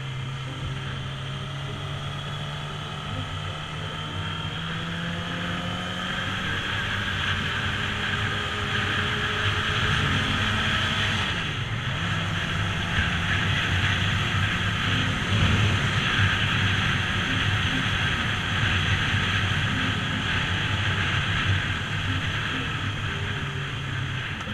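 Motorcycle engine running during a ride, its pitch rising slowly as it gathers speed, with a brief dip in pitch about twelve seconds in. A rushing wind noise over the microphone grows louder with the speed.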